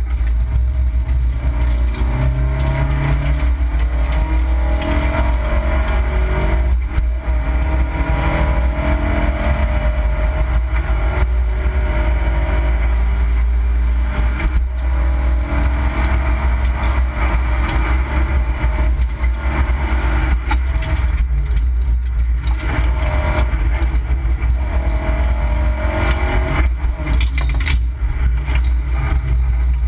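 Opel Corsa B rally car's engine heard from inside the cabin, revving hard and changing gear, its pitch climbing with each pull and dropping at each shift, over a steady heavy low rumble.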